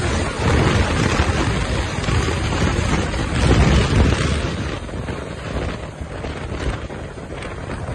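Wind rushing over the microphone of a moving Yamaha YZF R3 motorcycle, its parallel-twin engine mostly buried under the noise. It gets louder about three and a half seconds in, then eases off.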